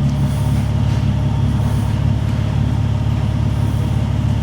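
Car engine running at a steady speed, a constant low drone with no revving.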